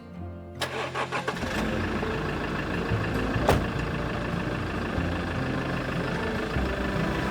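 A vehicle engine, the Toyota Land Cruiser 70's, starts about half a second in and then runs steadily at idle. There is a single sharp click about three and a half seconds in.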